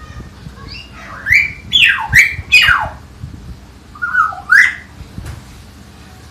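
Common hill myna giving its natural calls: loud whistles that sweep sharply down in pitch, four in quick succession about a second in, then two more a little past the middle.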